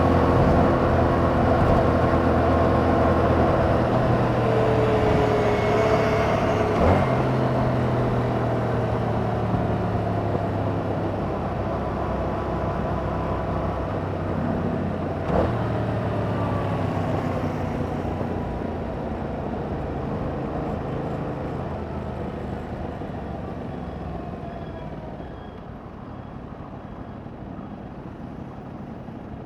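Yamaha MT-07's 689 cc parallel-twin engine running through its stock exhaust under way, steady at first. Through the second half the note slowly drops in pitch and grows quieter, as if the bike is slowing. Two sharp clicks come about 7 and 15 seconds in.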